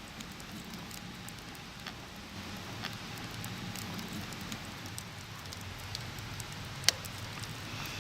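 Wood campfire crackling: a steady hiss with scattered sharp pops, the loudest a little before the end.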